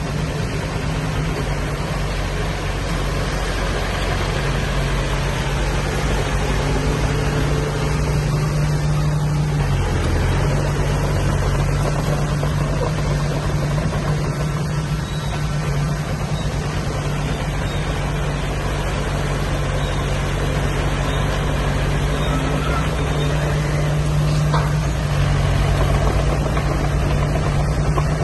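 Diesel engine of heavy earthmoving machinery running steadily with a strong low hum, its pitch dipping briefly about ten seconds in.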